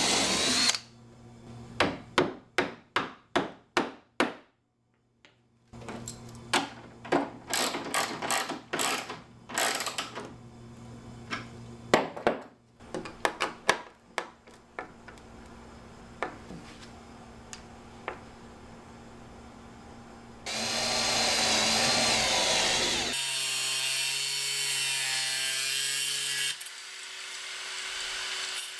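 Workshop woodworking: a run of sharp knocks, about three a second, then scattered knocks. Later, power tools run for several seconds, first a loud noisy stretch, then a steadier motor whine.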